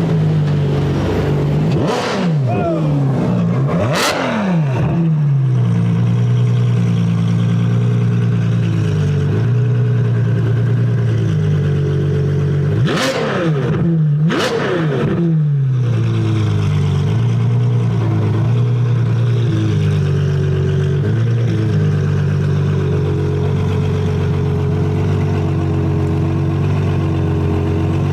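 Car engine running at low revs through a loud aftermarket exhaust, its pitch stepping slightly up and down, while other fast cars rush past four times, each a short sharp sweep in pitch.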